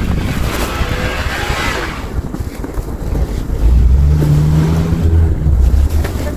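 Wind buffeting the microphone in a snowstorm, with a hiss of blowing snow for the first two seconds. About three and a half seconds in, a vehicle engine comes up, a steady low hum that holds for about two seconds.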